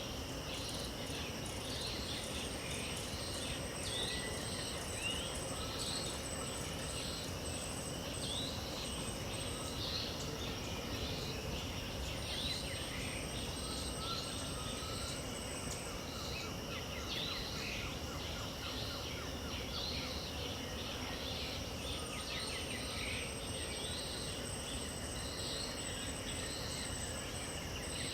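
Dawn chorus of insects and birds in the Pantanal wetland. Steady high-pitched insect trills drone over many short, repeated bird chirps, on a bed of constant hiss.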